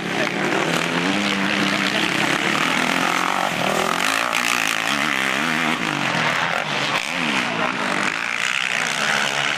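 Motocross bike engines revving, the pitch climbing and dropping again and again as the riders work the throttle and shift gears.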